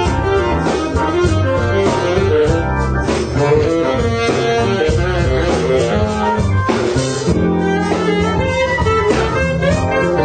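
Blues band music: guitar playing over a drum kit.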